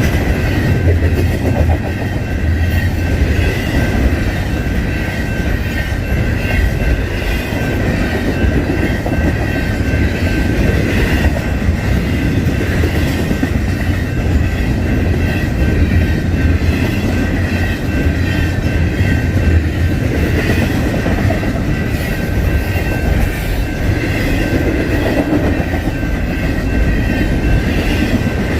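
Long double-stack intermodal freight train rolling past at a steady pace: a continuous heavy rumble with wheel clatter over the rail and a steady high ringing tone from the wheels.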